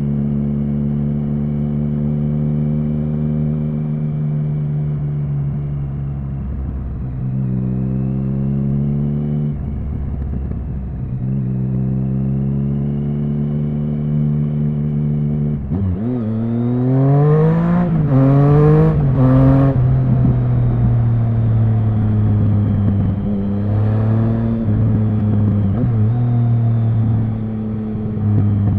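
Triumph Speed Triple 1050's three-cylinder engine running steadily at low revs. About halfway through, it pulls hard with the revs climbing in several quick rises, each cut short by an upshift. A shorter rise in revs follows a few seconds later.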